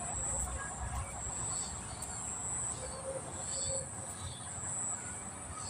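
Outdoor ambience: a steady, high-pitched buzz that swells and fades, with a few short bird calls.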